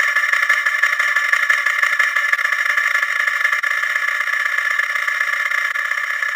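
A 'wah wah' sound effect sped up so many times that it has blurred into one steady, dense buzz, thin and high with no bass.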